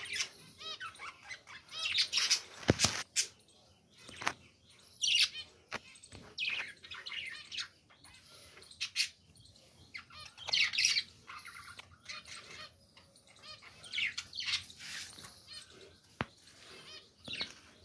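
Budgerigars chirping and chattering in short, repeated bursts of high, gliding notes, with a few sharp clicks in between.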